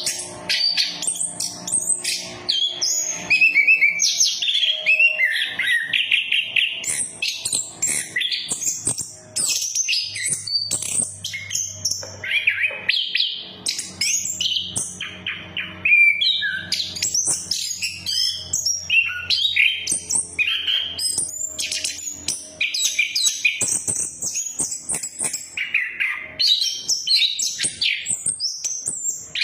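Chestnut-capped thrush (anis kembang) singing a long, varied song of rapid whistles, trills and chattering phrases, with a brief pause about nine seconds in. A faint steady low hum runs underneath.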